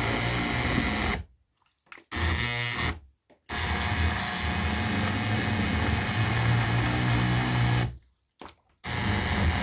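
Immersion blender running in a container of soaked paper pulp, switched off and on several times: it stops about a second in, gives a short burst, stops again, runs steadily, then cuts out once more near the end before starting up again.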